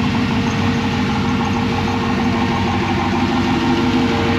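Turbocharged LS V8 engine idling loudly and steadily, its firing pulses fast and even, with a steady tone running through it.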